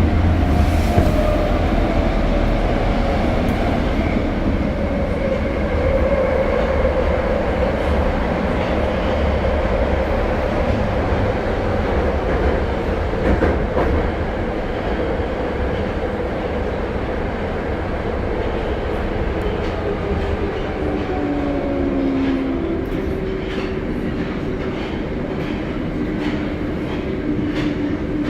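Tokyo Metro 02 series subway train running between stations, heard from inside the car: a steady low rumble of wheels on rail, with a motor whine that falls in pitch over the first several seconds and a lower whine returning near the end, plus occasional faint clicks.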